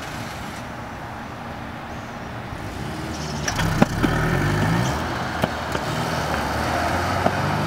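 Car engine running, getting louder about three seconds in, its pitch stepping up and down as it is revved while the car pulls away. A few sharp clicks sound over it.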